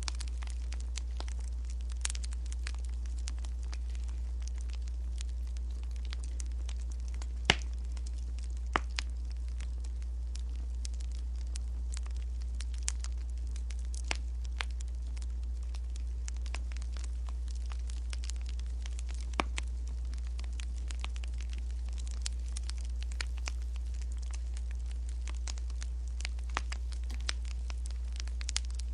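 Wood fire crackling, with irregular sharp pops and snaps, a few louder than the rest, over a steady low hum.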